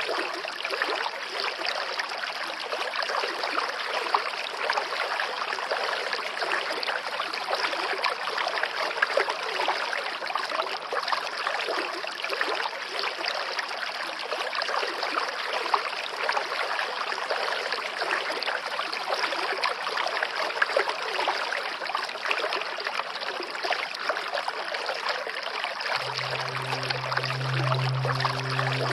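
Steady rushing and trickling of flowing stream water. About three seconds before the end, a low sustained music tone comes in under it.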